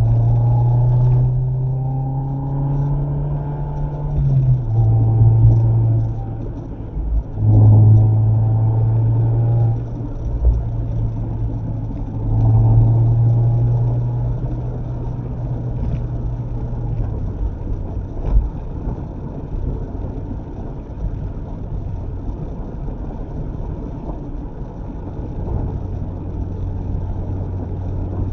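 Mazda MX-5 ND's four-cylinder engine heard while driving: it pulls hard several times, each pull ending in a drop in pitch. From about halfway it settles to a steadier, quieter cruising hum under road noise.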